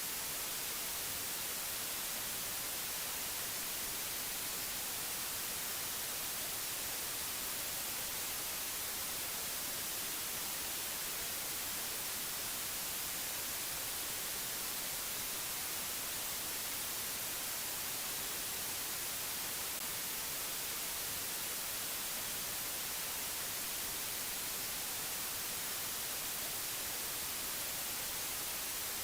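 Steady white-noise hiss, even and unchanging, strongest in the highest pitches, with no other sound on top.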